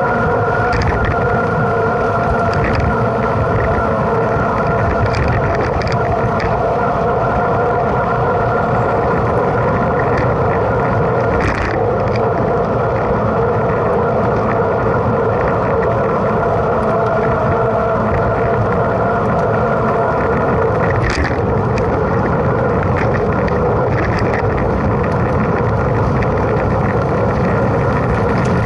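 Mountain bike ridden at speed: steady wind and tyre noise with a continuous hum at several pitches, and a few short rattles or clicks, the strongest about 11 and 21 seconds in.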